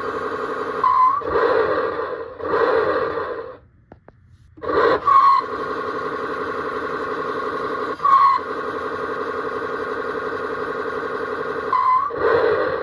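Road Rippers toy Cadillac Escalade EXT's sound chip playing a recorded engine running through its small speaker, a steady pulsing idle. Louder rev bursts come about a second in, at two and a half seconds, at five, at eight and at twelve seconds, and the sound drops out briefly near four seconds.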